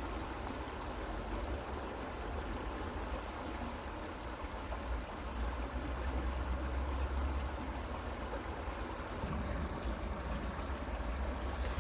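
Creek water running, a steady rushing with a low rumble underneath.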